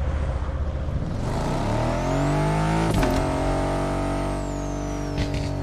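Aston Martin Vantage engine run up at full throttle. It starts low and lumpy, then the revs climb steadily for about two seconds. A sharp crack comes about three seconds in, after which it holds a steady high note, with a few short sharp pops near the end.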